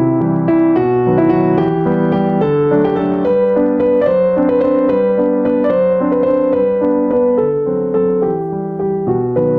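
Background piano music: a gentle melody over sustained chords, with notes changing every half second or so at a steady level.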